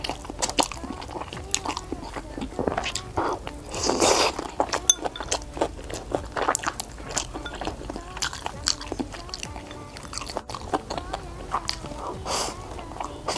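Close-miked eating sounds: biting and chewing sticky sweet and sour pork ribs and rice, with crunchy bites and many short, sharp clicks. There are louder noisy bursts about four seconds in and again near the end.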